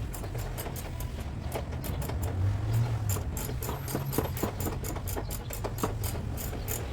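Light, irregular tapping and clicking, several taps a second, over a steady low hum.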